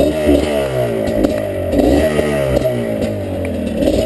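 Two-stroke dirt bike engine revving, its pitch rising and falling again and again under throttle.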